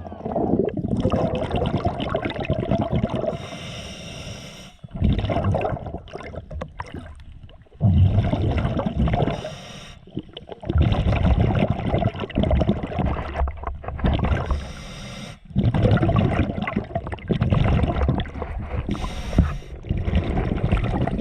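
Underwater noise heard through a submerged camera: muffled gurgling and rumbling in irregular bursts of a couple of seconds each, with brief lulls between them.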